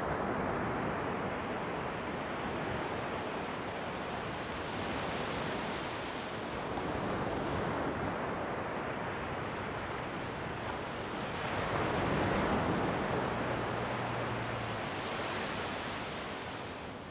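Ocean waves breaking and washing on the shore in a continuous surge, swelling several times with the biggest wave about twelve seconds in.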